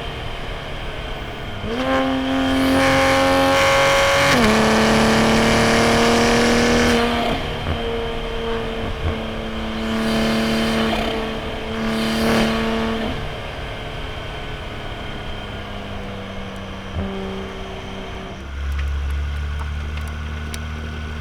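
Toyota A90 Supra's B58 turbocharged inline-six with a straight-piped titanium single-exit exhaust, driven hard on a road run, its pitch stepping up and down with the revs and gear changes. In the second half it settles to lower revs and a quieter, lower drone.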